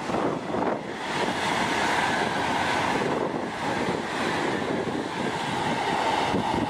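THSR 700T high-speed train passing at speed, a steady rushing noise of the train's air and wheels on the rail.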